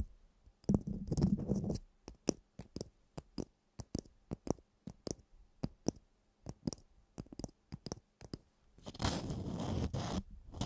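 A short scrape, then a run of sharp, uneven clicks lasting several seconds, then a longer scraping sound near the end.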